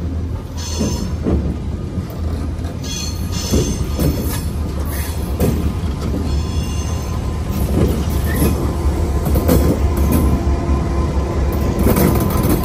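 Freight train rolling past with a steady deep rumble. The wheels squeal against the rail three times, high-pitched, with repeated knocks of the wheels over the rail joints.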